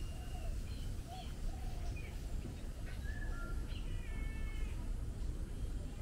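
Birds calling in an aviary: a series of short whistled calls, some rising and falling and one with stepped notes about four seconds in, over a steady low rumble.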